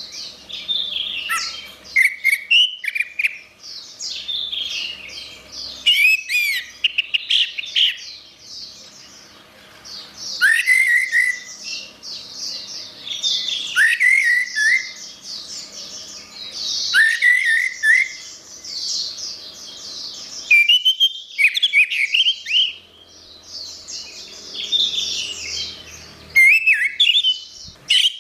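Orange-headed thrush (anis merah) singing: a long run of varied, rapid whistled and chattering phrases, each a few seconds long, with short pauses between them.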